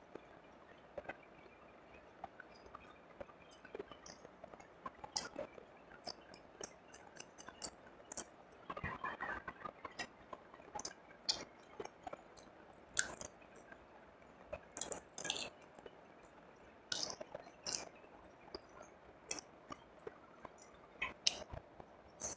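Close-miked chewing of fried rice and fried fish eaten by hand: soft, wet chewing with many scattered sharp crunchy clicks, busiest about nine seconds in.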